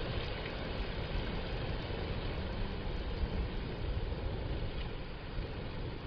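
Gentle ocean surf on a beach: a steady wash of noise, heaviest in the low end.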